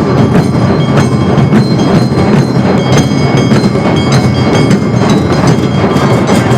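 Awa odori festival ensemble playing loudly: a fast, driving beat of taiko drums and clanging kane hand gongs, with steady ringing tones over the clatter.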